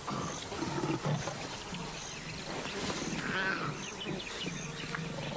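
Lions growling low and rough, with one rasping, higher-pitched call about three seconds in, over insects chirping in a regular beat.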